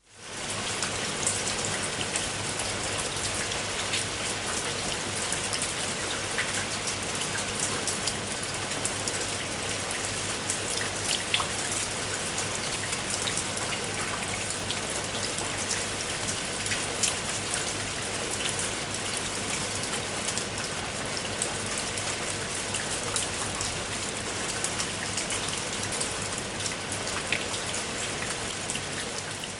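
Steady rain falling, a dense even patter with a few louder single drops standing out here and there. It fades in from silence at the start.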